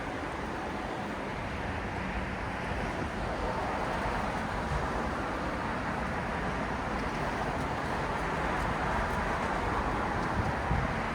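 City road traffic at night: a steady wash of passing cars and engines, swelling slightly partway through.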